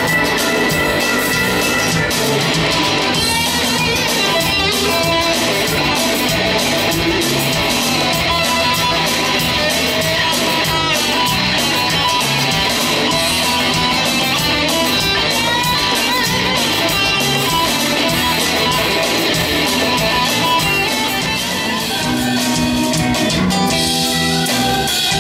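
A band playing live: strummed and electric guitars with bass and drum kit, no vocals.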